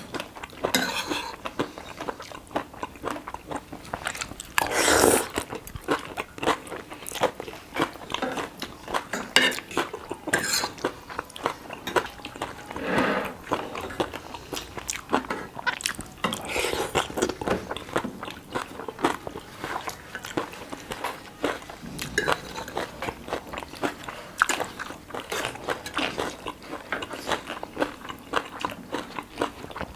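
A person chewing and biting food, with crunchy bites and irregular wet clicks, and a couple of louder moments about five and thirteen seconds in.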